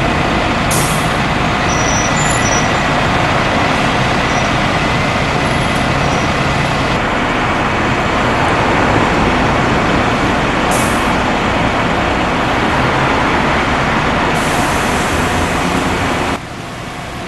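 Heavy diesel vehicle's engine running close by, with short hisses of released air about a second in and again later, and a longer hiss shortly before the sound cuts off abruptly near the end.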